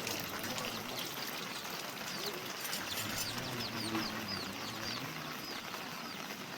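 A small bird giving a run of short, downward-slurred high chirps, several a second, over a steady hiss of rain.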